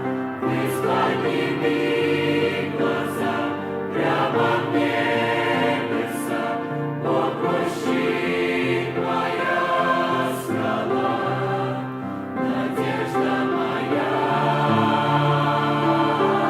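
A church choir singing a Russian-language gospel hymn, holding long notes in harmony.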